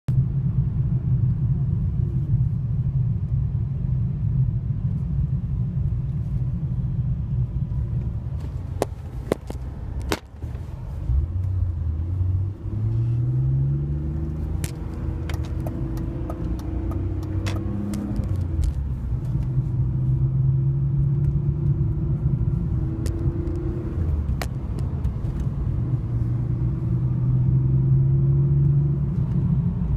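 BMW E46 325i's M54B25 2.5-litre inline-six idling roughly while cold. A few sharp clicks come about nine to ten seconds in. After them the engine speed rises and wanders up and down for several seconds before it settles: a hunting idle, which the owner suspects comes from the camshaft position sensors, DISA valve or VANOS.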